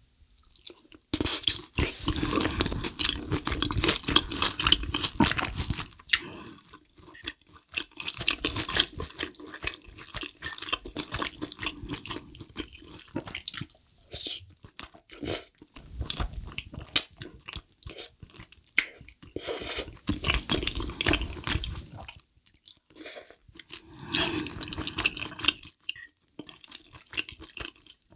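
Close-miked wet chewing and slurping of thick, creamy-sauced wide pasta noodles. It comes in several loud stretches of a few seconds each, with short quieter gaps between mouthfuls.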